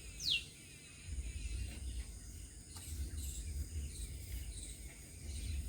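Field ambience: a steady high insect hum, a low rumble that comes and goes, and one short falling bird whistle just after the start.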